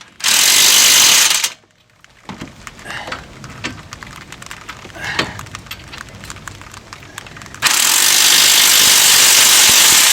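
Impact wrench running in two bursts, a short one at the start and a longer one from near the end, driving the strut's big 22 mm lower bolts to the knuckle. Between the bursts come small clicks and knocks of tools and metal parts being handled.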